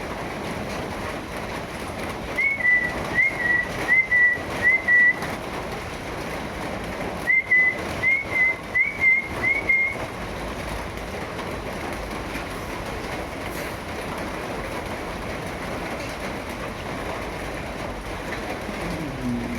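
A bird whistling two runs of four short, clear notes, each note flicking up then holding steady, over a steady hiss.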